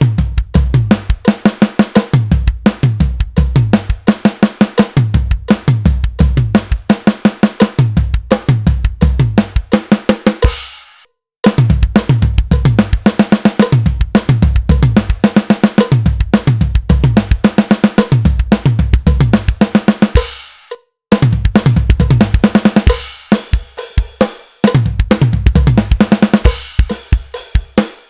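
Drum kit playing a groove into a fill built on the herta rudiment, counted in a triplet feel with an extra sixteenth note, on snare, toms, kick and cymbals. It is played three times, with brief stops about 11 and 20 seconds in.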